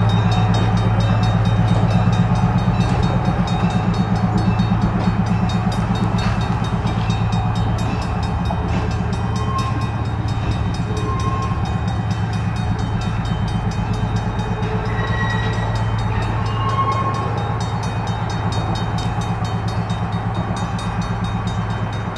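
Railway locomotive running with a steady low drone and a fine, even pulsing throughout.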